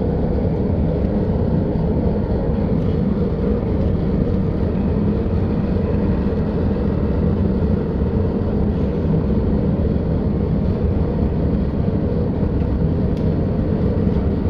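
Homemade Gingery-style melting furnace running with its air blower on: a steady, loud rumbling rush of forced air and fire that does not change.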